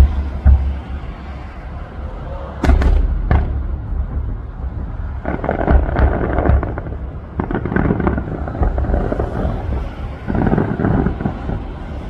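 Aerial display fireworks going off: deep booms throughout, with sharp bangs near the start and about three seconds in, and stretches of dense crackling that come and go.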